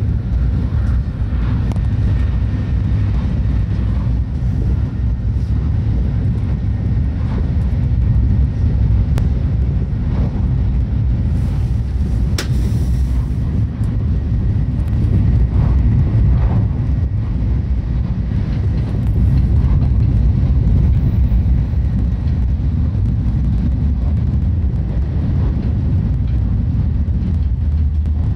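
Tokaido Shinkansen train running at speed, heard inside the passenger cabin: a steady low rumble with a few light clicks.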